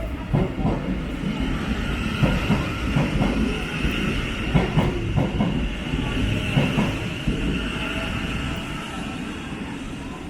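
Thameslink Class 700 electric train running through the platform, with irregular clattering knocks from the wheels over the track. The sound eases off near the end.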